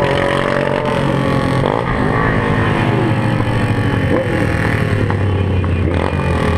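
Several motorcycle engines running together, revving up and down so that their pitches rise and fall over one another.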